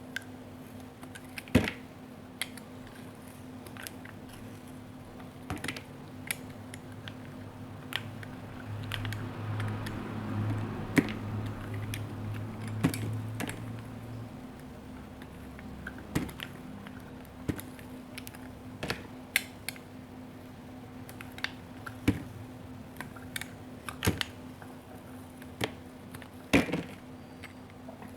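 Knife cutting dried soap into cubes: sharp, crisp cracks one to three seconds apart, at irregular spacing.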